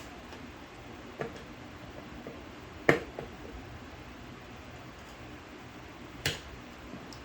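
Sharp clicks and taps of small tools and metal parts being handled while a carburetor is taken apart on the bench. There are three distinct clicks, about one, three and six seconds in, and the middle one is the loudest.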